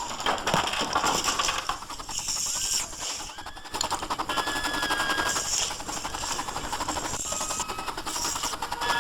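Toy train running along its track in a rapid, dense clatter of clicks, with steady high tones that come and go over it.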